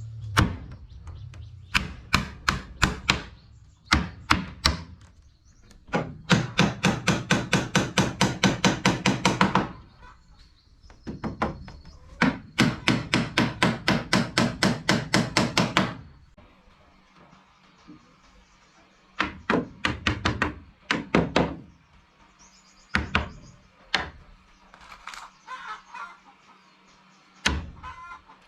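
Wood being struck repeatedly with a tool: scattered sharp knocks, and two long runs of fast, even blows at about eight or nine a second, followed by slower, single knocks near the end.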